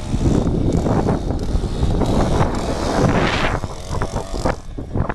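Heavy wind buffeting on the microphone of a moving motorized mountain bike, with its two-stroke engine running underneath. A gust of hiss swells about three seconds in.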